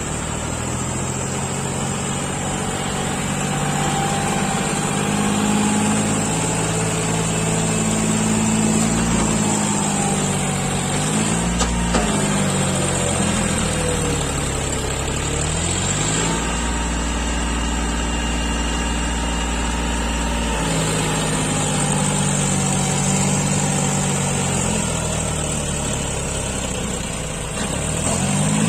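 John Deere four-wheel-drive tractor's diesel engine running under changing throttle and load. Its pitch drops and climbs again several times, with a longer steady stretch about two-thirds of the way through.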